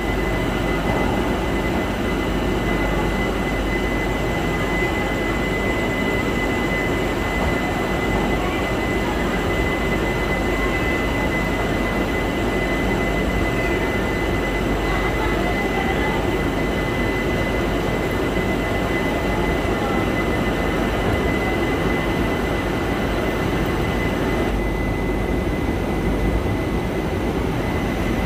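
Steady running noise of a passenger train at a station, heard from the coach door, with a thin steady high-pitched whine over it. The higher hiss thins out near the end.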